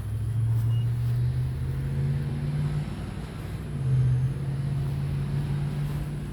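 A motor vehicle engine running, its low hum climbing slowly in pitch, dropping about three seconds in, then steadying and climbing again, as when a vehicle accelerates and shifts gear.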